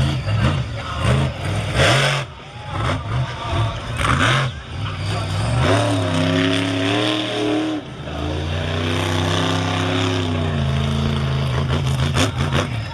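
Monster truck engine revving hard, its pitch rising and falling through repeated throttle blips, with short loud bursts of noise about 2 and 4 seconds in.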